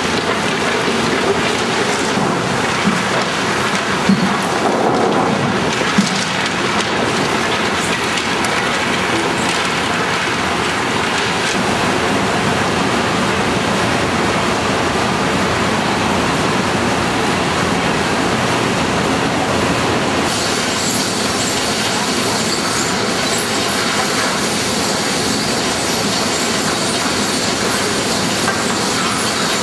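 Dubbed-in sound effect of a train running on rails, a steady dense rumble and rail noise with a few sharp knocks in the first few seconds. About two-thirds of the way through the sound abruptly turns hissier.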